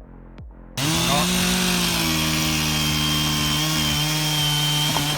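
A faint electronic music beat, then a chainsaw starts loud about a second in and runs steadily at high revs with a high whine, cutting off suddenly near the end.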